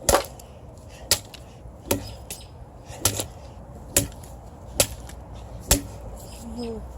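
Parts of a gutted washing machine control panel being struck hard, about seven sharp blows roughly a second apart.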